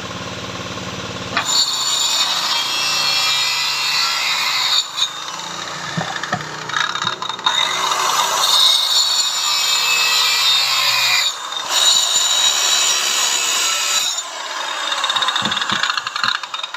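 A tool working wood: a loud, steady scraping noise, broken by several short pauses.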